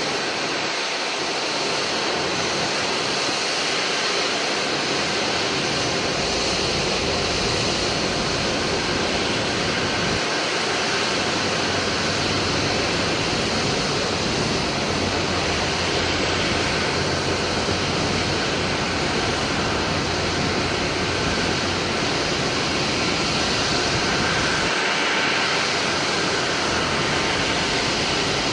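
Jet airliner landing, heard as a steady rushing engine noise, with a deep rumble that comes in about ten seconds in and drops away near the end.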